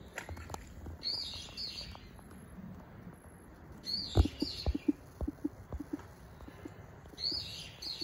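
A bird calling: short high calls in three bursts, about a second, four seconds and seven seconds in. A string of soft low knocks comes between about four and six and a half seconds in.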